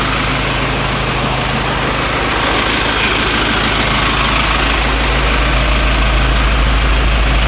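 Isuzu truck engine idling steadily with the A/C switched on, a low hum with a steady rushing noise over it, getting slightly louder toward the end.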